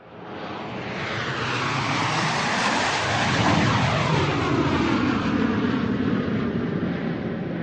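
An airplane flying overhead. Its engine noise swells in over the first two seconds and peaks about three to four seconds in, with falling, sweeping tones as it passes, then stays loud.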